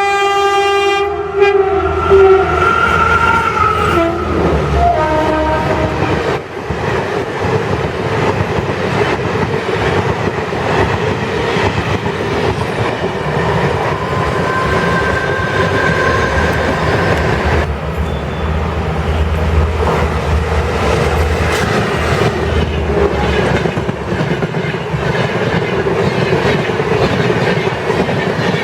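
WCAM-2P electric locomotive's horn sounding for about two seconds, then again briefly around five seconds in with its pitch falling, followed by the steady rumble and clickety-clack of an express train's coaches running fast over the rails.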